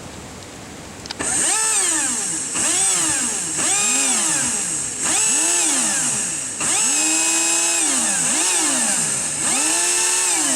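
Electric jet-drive motors of a home-built jet kayak revving up and down about seven times, starting about a second in, with a high-pitched whine; the pitch rises with each throttle burst, sometimes holds briefly at the top, then falls away.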